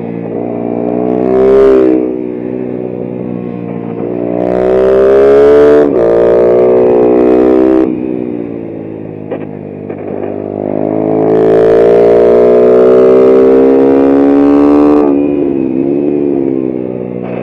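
Racing mini motorcycle's engine heard from the rider's helmet, revving up on the straights and dropping back each time the throttle closes for a corner, about four times.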